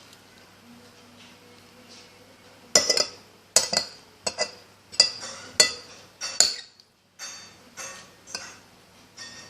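A fork clinking and scraping against a plate: about a dozen sharp, irregular clinks, starting a few seconds in.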